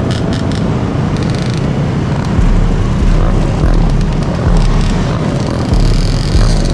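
Dirt bike and ATV engines running, with a loud, uneven low rumble.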